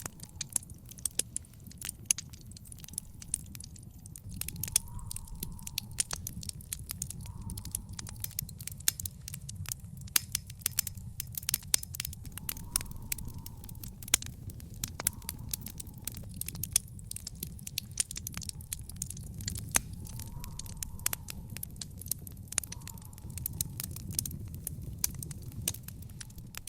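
Wood fire in an outdoor fire pit crackling, with many quick sharp pops over a steady low rumble.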